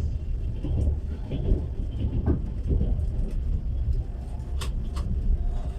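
Steady low rumble of a moving passenger train carriage, heard from inside the car. Two sharp clicks come near the end.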